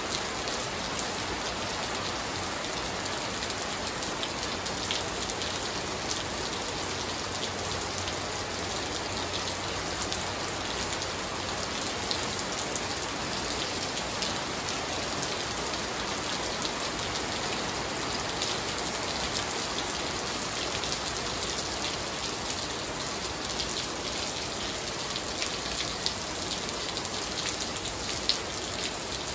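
Steady heavy rain falling on wet patio tiles and garden foliage, an even hiss with many small splashes of drops landing close by.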